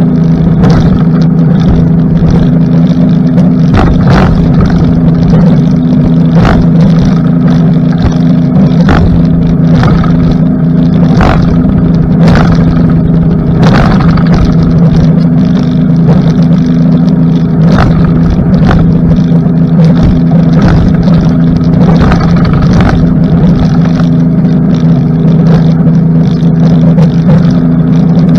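Suzuki DF60 four-stroke outboard running at a steady cruising speed, a constant drone that holds its pitch, with irregular sharp thumps every second or two as the RIB's hull meets the waves.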